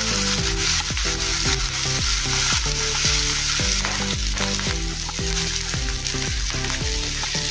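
Chopped onion and green chillies sizzling in hot oil while being stirred in the pan, a steady frying hiss with the scrape of the stirring spoon.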